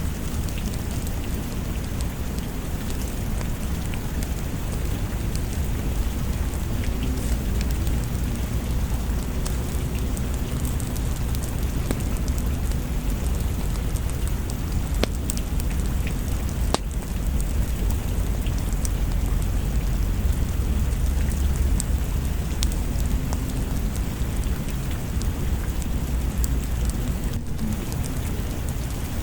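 Steady rain with a low rumble of thunder underneath, swelling a little midway, and scattered sharp clicks of drops or crackles.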